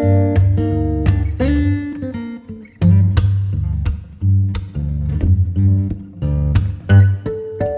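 Background music played on acoustic guitar: plucked and strummed notes over a bass line.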